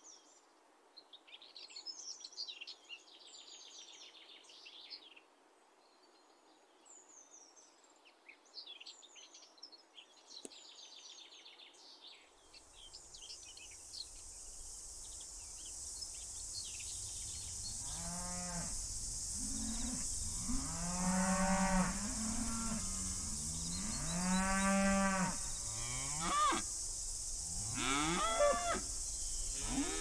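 Small birds chirp over near quiet. Then a steady high hiss and a low rumble come in, and in the second half cows moo several times in long, low calls, one after another.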